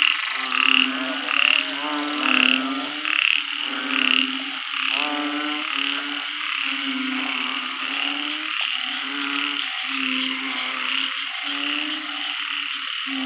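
Breeding chorus of narrow-mouthed frogs (Thai 'ueng') calling after heavy rain. For the first five seconds a nearby frog gives loud calls about once a second over many others, and then the chorus continues as a steady dense calling.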